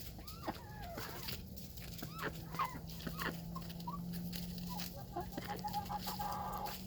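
Chickens clucking softly: a scatter of short, separate clucks and chirps that curve in pitch, from several birds around the hens and rooster.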